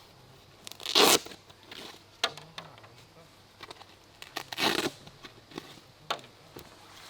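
Camping gear being handled at close range: two loud, short rasping bursts, about a second in and just past the middle, with lighter clicks and rustles between them.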